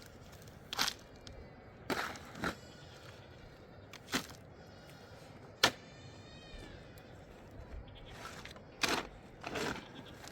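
Scattered sharp knocks and crunches, about seven, irregularly spaced, with a brief high wavering call just after the sharpest knock, a bit over halfway through.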